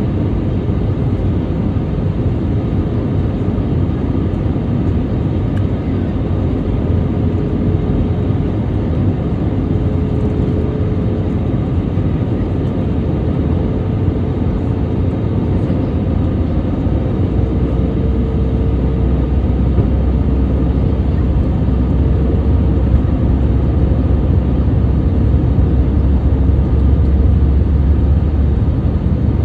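Steady cabin noise of a jet airliner in flight: engine and airflow rumble with a faint steady hum. The low rumble grows stronger and a little louder about halfway through.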